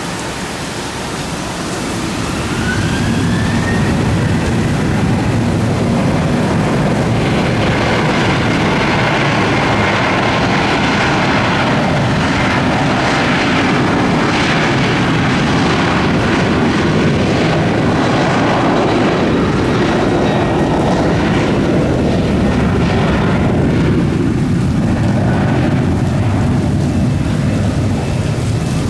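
Jet airliner engines running close by, loud and steady. They grow louder about three seconds in, with a faint rising whine early on.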